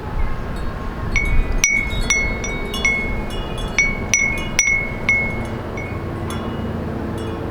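Small wind chime ringing in the breeze: a flurry of light, clear strikes starts about a second in and dies away after about five seconds. Under it runs the steady low hum of city traffic.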